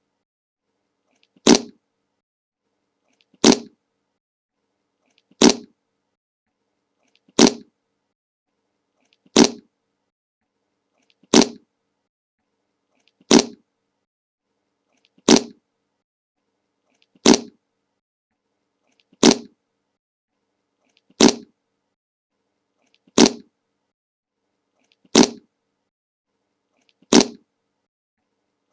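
A short recorded fart sound effect, the 'Le Monke' meme clip, played over and over on a loop. The same brief blast comes about every two seconds with silence between, about fourteen times.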